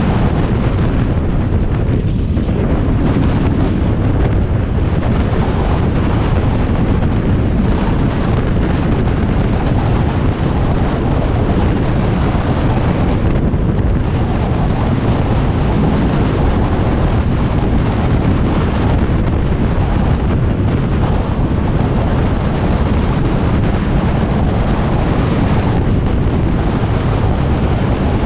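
Steady wind noise buffeting the microphone on a moving motorcycle, with the Harley-Davidson Iron 1200's air-cooled V-twin running underneath at cruising speed.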